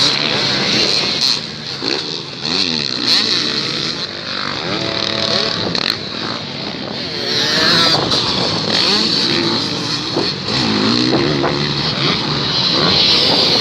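Several motocross bikes racing, their engines revving up and down in overlapping rising and falling pitches as they pass and change speed.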